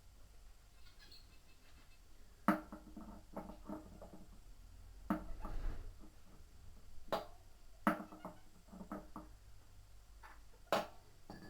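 Sharp knocks and light clattering of hard parts and tools being handled while a washing machine is put back together. There are five distinct knocks a couple of seconds apart, each followed by smaller rattles.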